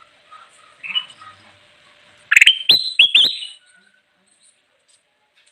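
Kutilang emas (bulbul) singing: a short call about a second in, then a loud burst of quick whistled notes in the middle.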